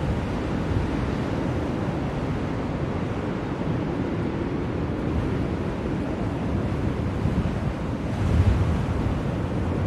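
Blizzard wind blowing steadily, a deep rushing noise with a stronger gust about eight and a half seconds in.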